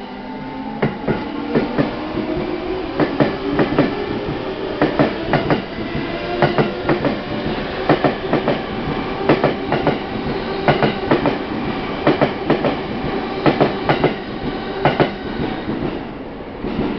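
Electric train moving along the platform, its wheels clacking over rail joints in quick pairs again and again for the whole stretch. A low tone rises slowly in pitch during the first few seconds.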